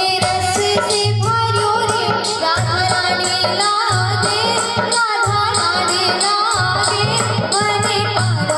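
A devotional bhajan sung over instrumental backing, with a steady low beat and regular rattling hand percussion.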